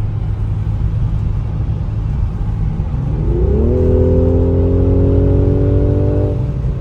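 Mercedes-AMG C43 convertible's twin-turbo V6 accelerating over steady road rumble: about three seconds in the engine note climbs quickly, holds high and steady for a couple of seconds, then drops away near the end.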